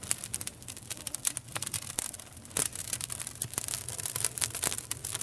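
Wood campfire crackling, with irregular sharp pops and snaps, a few louder than the rest.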